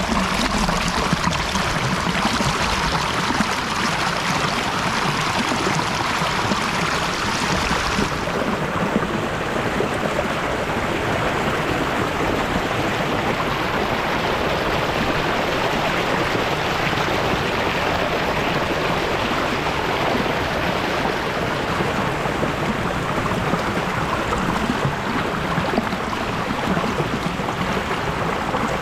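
Steady rush of a waterfall and its stream, running water without a break. About eight seconds in it turns duller, losing much of its high hiss.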